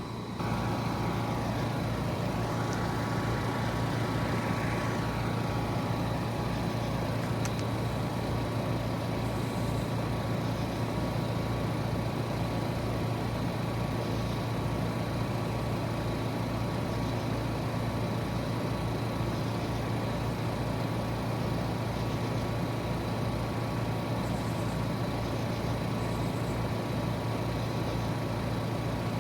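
Trane XR14 heat pump outdoor unit starting up about half a second in: a sudden rise to a steady compressor and fan hum, with a whine that sweeps up and back down over the first few seconds as it settles into running.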